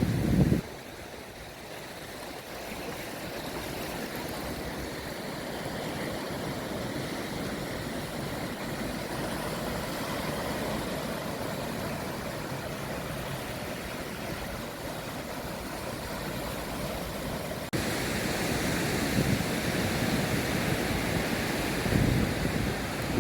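Steady wash of ocean surf, with wind buffeting the microphone in low gusts near the end.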